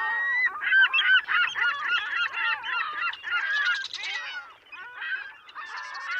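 A flock of birds calling: many short, overlapping calls that rise and fall in pitch, with a brief lull about three quarters of the way through.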